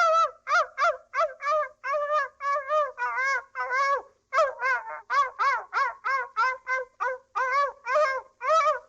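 A fowl calling over and over in a rapid string of short pitched calls, about two or three a second, with one brief pause midway.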